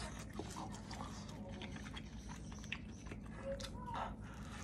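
Close-up mouth sounds of a man biting and chewing a pan-fried dumpling, with faint clicks from metal chopsticks, over a steady low hum.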